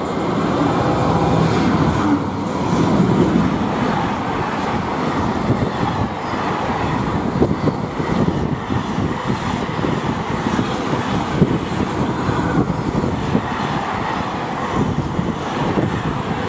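Freightliner Class 66 diesel locomotive passing through, its two-stroke engine running loudest in the first few seconds, followed by a long rake of container wagons clattering over the rails with a steady run of knocks and rattles.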